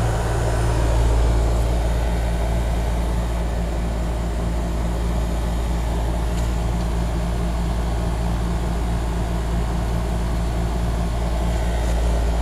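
Trane XR11 2.5-ton heat pump outdoor unit running in cooling mode: a steady low compressor hum under the even rush of the condenser fan.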